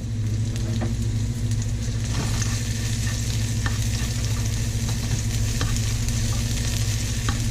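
Pounded chili and garlic sizzling in hot oil in a pan as they are stir-fried, the utensil scraping and clicking against the pan now and then, over a steady low hum.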